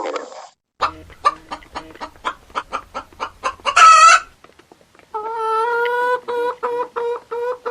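Chicken clucking: a quick run of short clucks, a loud squawk about four seconds in, then a long drawn call followed by a steady string of repeated clucks. A short grunt from another animal sits at the very start.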